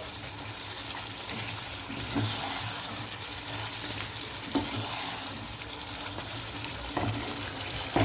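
Chicken kanti in a thick spiced yoghurt masala sizzling in a pan while it is stirred, with a few spatula knocks against the pan.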